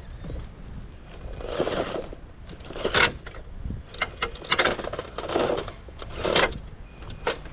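An RC crawler truck's small electric motor and gears whirring and scraping in short bursts, about six in a row.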